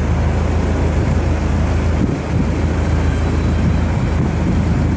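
Jet airliner's engines at takeoff power, a steady loud rumble.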